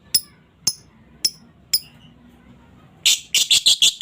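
Female lovebird calling: single short, sharp, high chirps about twice a second, then a quick rapid run of louder chirps in the last second, the chattering 'ngekek' call.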